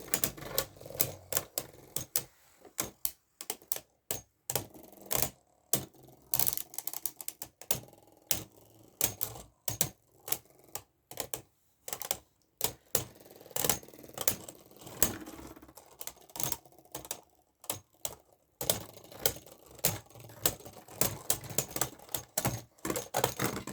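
Beyblade Burst spinning tops battling in a plastic stadium, clashing in irregular sharp clacks, often several a second, with short quieter stretches between.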